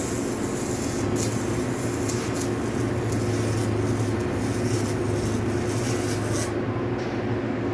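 Steady mechanical hum of a CNC machine, overlaid with a hiss that cuts off suddenly about six and a half seconds in.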